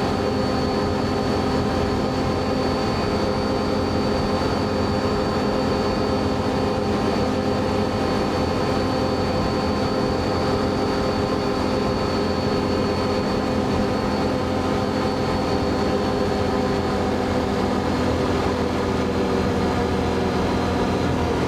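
Can-Am Outlander ATV engine running at a steady cruising speed, its pitch holding even.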